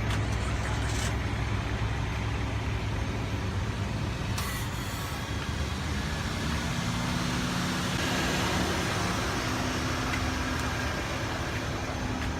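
Motor vehicle engines running nearby: a steady low idling hum, joined about six seconds in by a second engine note that rises slightly in pitch.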